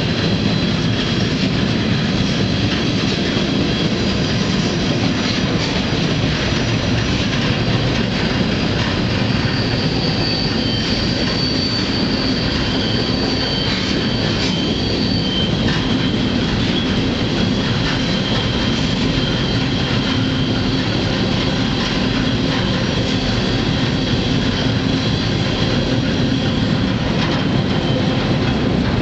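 Freight train rolling along the rails, heard from aboard: a steady, loud rumble and rattle of wheels and cars. Thin, high steel-wheel squeal rides over it, strongest in the middle of the stretch.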